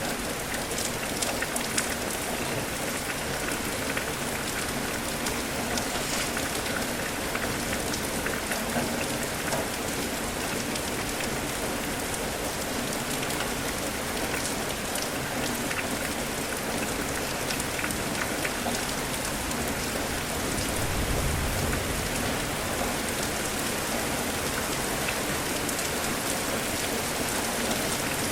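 Steady rain falling, with many small drops ticking on surfaces over an even hiss. A brief low rumble swells about twenty seconds in.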